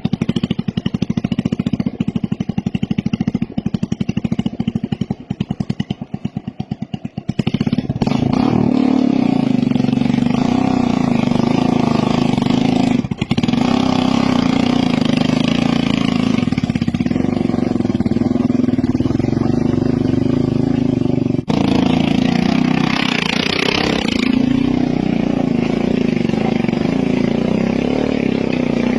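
Motorcycle engines working hard under load: a fast, even beat of engine firing for the first several seconds, then an abrupt change about seven seconds in to a steadier, higher engine note, with further sudden breaks about 13 and 21 seconds in.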